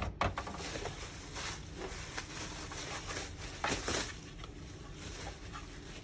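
Hard plastic diorama parts being handled and fitted together: a rustling with scattered clicks and knocks, the loudest around the start and about four seconds in, easing off near the end.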